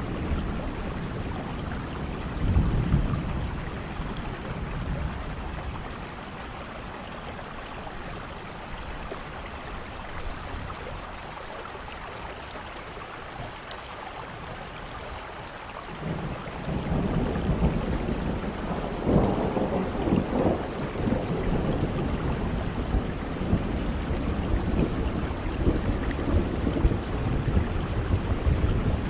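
Steady rain with rolling thunder. A rumble swells briefly near the start, the thunder falls back for a while, then from about halfway a louder, longer rumble rolls on.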